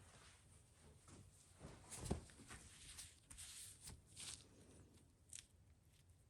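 Faint handling noises and light clicks of metal engine parts being worked by hand, with one short knock about two seconds in.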